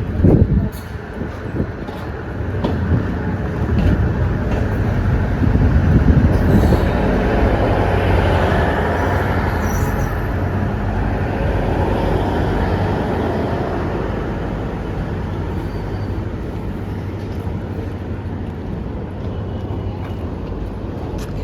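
Diesel-electric multiple unit train running on the rails, its diesel engine hum and wheel noise growing louder over the first six seconds or so, then slowly fading. A sharp knock just after the start.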